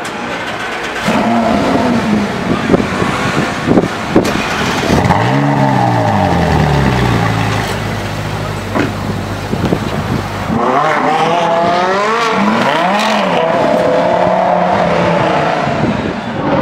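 Ferrari 458 Spider's V8 revved at standstill, with a few sharp cracks early on. A long rev about five seconds in falls back to a steady idle, and a run of quick blips follows near the two-thirds mark.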